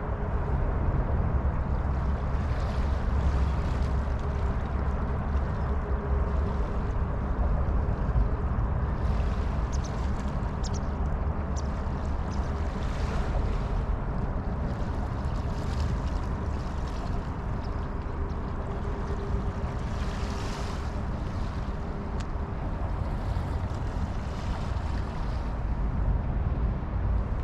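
A steady low mechanical drone with a faint constant hum over it, like an engine running nearby, with light wind and scattered faint rustles.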